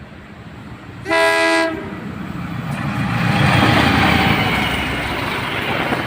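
A train horn sounds one short, loud blast about a second in. Then the rumble and wheel clatter of the passing train builds up and stays loud.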